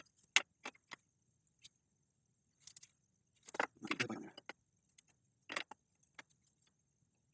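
Metal hand tools clinking and clicking in a string of short, scattered taps, with a busier cluster of clinks a little past the middle, as a wrench is fitted to the bike frame's brake studs to loosen them.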